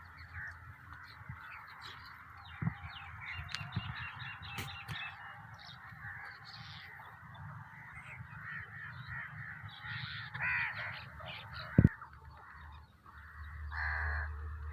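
A mixed flock of birds chattering and calling over one another, with crows cawing harshly a few times in the second half. A single sharp knock near the twelve-second mark is the loudest sound.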